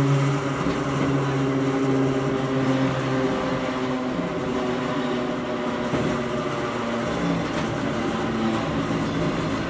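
Hakone Tozan Railway Moha 1 electric car running, heard from inside the car: the nose-suspended traction motors and gears hum in held tones over wheel and track noise, and the tones change pitch about a third of the way in.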